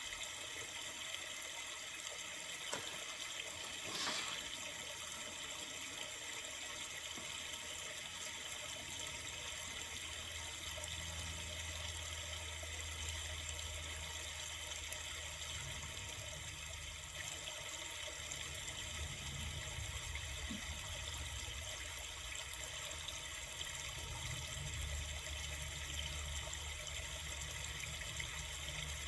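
A river flowing: a steady, even rush of water. A brief tick sounds about four seconds in, and a low rumble comes and goes in the second half.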